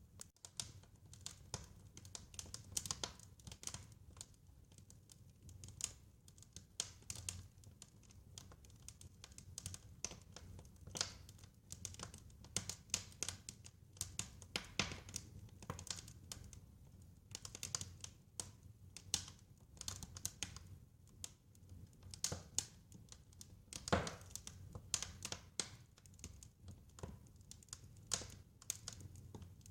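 Wood fire crackling, with irregular sharp snaps and pops over a low steady rumble of the flames. One louder pop comes about two thirds of the way through.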